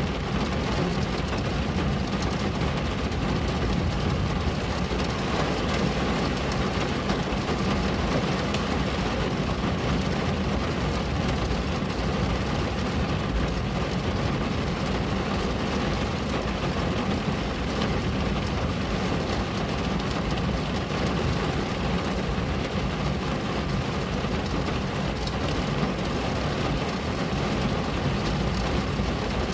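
Steady rain on a window, an even, unbroken hiss with a heavier low rumble underneath.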